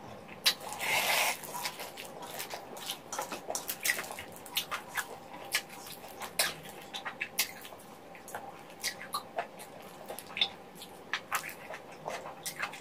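Close-up eating sounds: chewing of chewy food (chicken feet and rice cakes in spicy sauce), with many irregular wet mouth clicks and smacks and a longer, louder noise about a second in.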